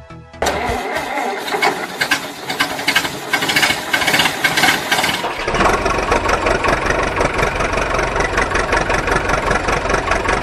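Engine starting up with a rattling clatter, then running steadily with a deeper rumble from about five seconds in.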